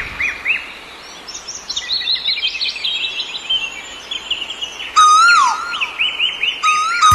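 Birds calling: a run of quick repeated chirps, joined about two seconds in by a higher series. About five seconds in, and again near the end, come loud whistled calls that hold a note and then fall in pitch.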